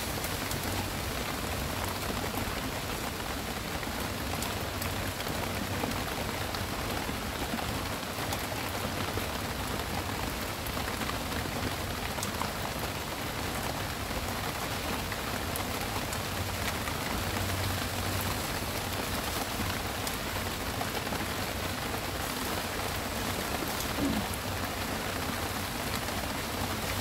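Steady heavy rain falling, with a few single drops ticking close by.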